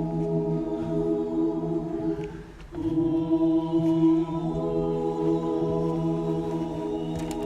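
A choir singing long held chords, breaking off briefly about two and a half seconds in before the next chord.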